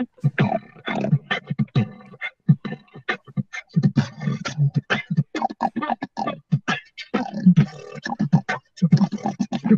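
Human beatboxing: a fast, dense rhythm of mouth-made bass-drum thumps and sharp snare-like clicks and hisses.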